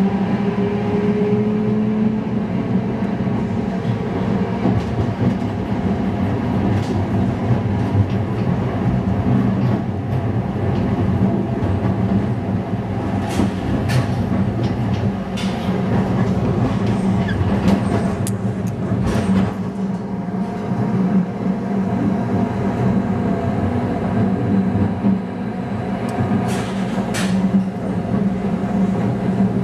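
Replica 1920s-style electric streetcar running on its rails, a steady motor hum with a whine rising in pitch over the first few seconds. Scattered sharp clicks and knocks come in the middle and again near the end.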